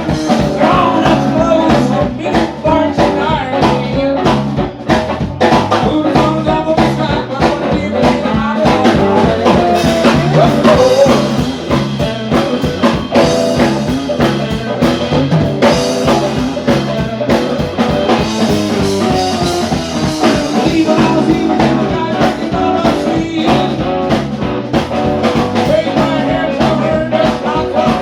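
Blues-rock band playing: electric guitar, bass and drum kit keeping a steady beat.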